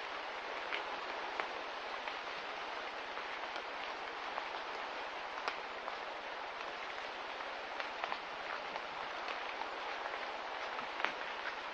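Steady hiss of light rain, with scattered single drops ticking through it.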